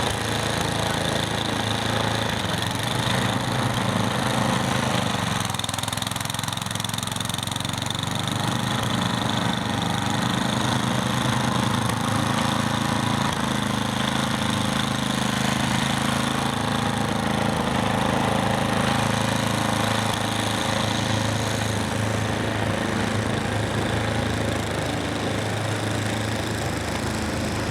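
Snowblower engine running steadily under load.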